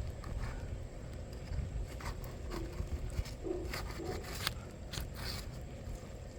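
Scattered scrapes and sharp clicks of hand work on a roof shingle during a repair, over a steady low rumble.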